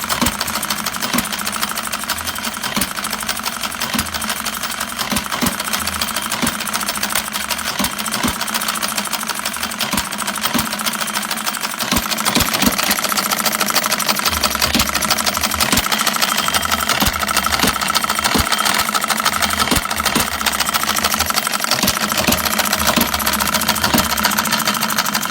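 Miniature hit-and-miss model engine running, with a fast light mechanical clatter throughout and sharp knocks at uneven intervals of about a second.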